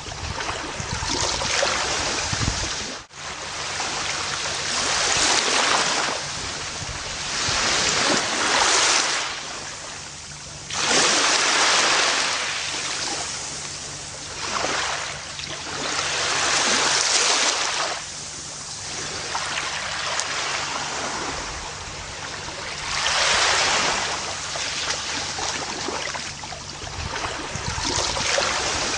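Gentle ocean surf on a beach: a steady hiss of water that swells every few seconds as waves come in, with one brief dropout about three seconds in.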